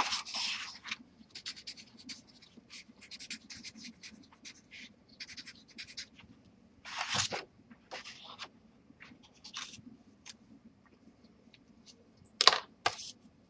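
Oil pastel scraping across textured watercolor paper in short, irregular strokes, with a few louder strokes about seven seconds in and near the end.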